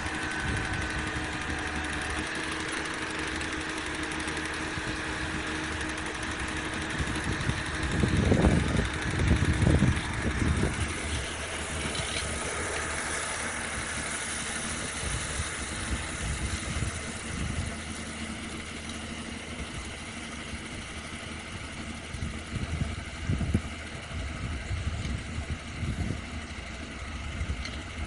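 Case IH Puma 140 tractor's diesel engine running steadily while powering a Hurricane rotary ditcher. Loud low surges come about eight to ten seconds in and again near the end.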